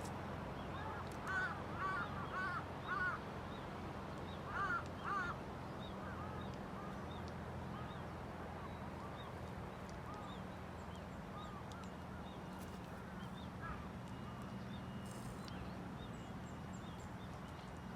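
A crow cawing: four loud caws in a row, then two more about five seconds in, with fainter caws repeating through the rest, over a low steady hum.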